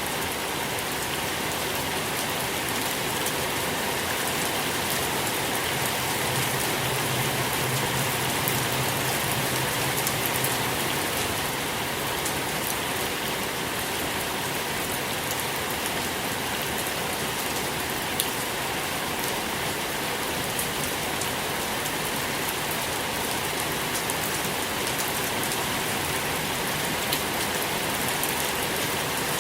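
Steady rain falling on a surface, an even hiss with scattered individual droplet ticks.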